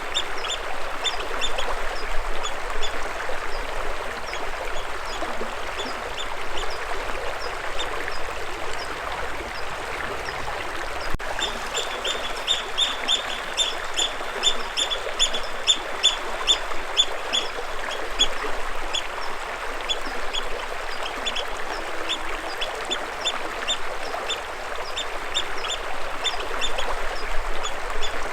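Birds chirping in quick runs of short, high repeated notes, busiest around the middle, over the steady rush of running water.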